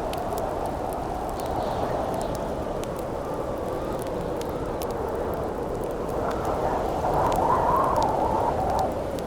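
Wind howling steadily, swelling into a louder gust about seven seconds in, over the scattered pops and crackles of a wood campfire.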